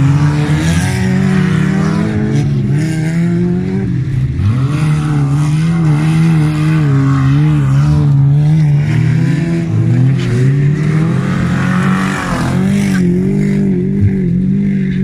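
Wreck-race cars' engines revving hard as they race, the pitch rising and falling constantly with the throttle.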